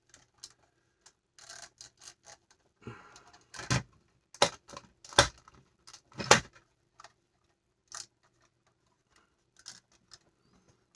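Plastic LEGO bricks clicking and clattering as they are handled and pressed together: a string of sharp clicks, with a few louder snaps in the middle and some light rustling of pieces before them.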